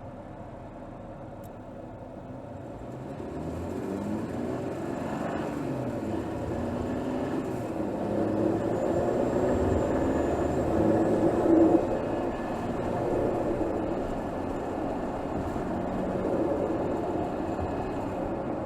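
Mercedes GLS 450's 3.0-litre turbocharged inline-six engine heard from under the hood, running quietly at first, then pulling away with its pitch rising from about three seconds in. It is loudest a little before two-thirds of the way through, then eases back to a steadier run.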